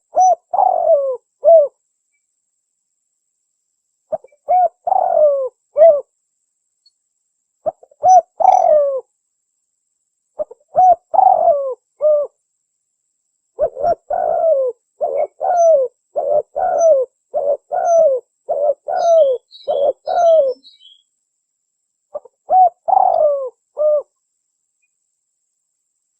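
Spotted dove (tekukur) cooing: phrases of a few falling coos repeated every few seconds with silent gaps between them, and a quicker run of short coos about halfway through.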